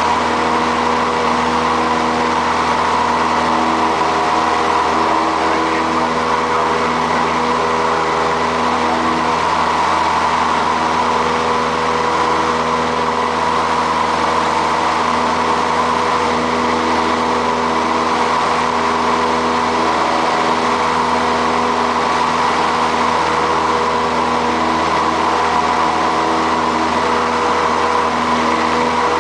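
Light aircraft's piston engine and propeller droning steadily, heard inside the cockpit.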